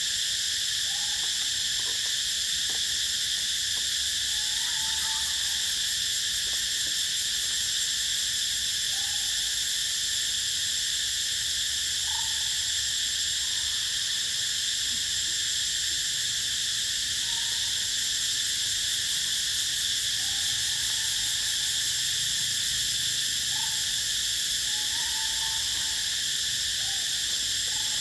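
Steady, unbroken chorus of insects: a continuous high drone, with short faint calls breaking in every few seconds.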